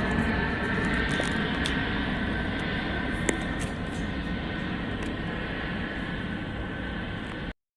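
Airplane engine noise, steady with a faint whine, slowly fading as the aircraft moves away, then cut off abruptly near the end.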